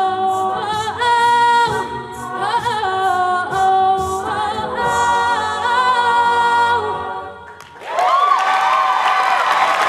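College a cappella group singing the closing sustained chords of the song in close vocal harmony over a low sung bass. The singing stops about seven and a half seconds in, and the audience bursts into applause and cheering with whoops.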